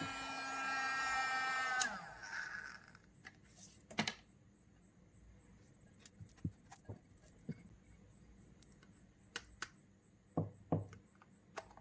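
Small DC motor of a homemade mini vacuum cleaner running with a high whine, then switched off about two seconds in and winding down with a falling pitch. Scattered light clicks and knocks of handling follow.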